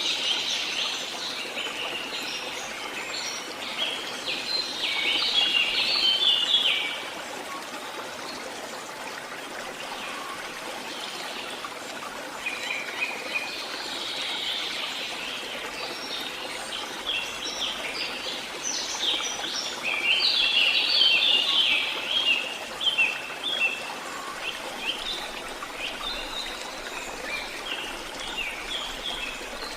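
Several songbirds singing and chirping in bursts, busiest a few seconds in and again around two-thirds through, over a steady rush of running water.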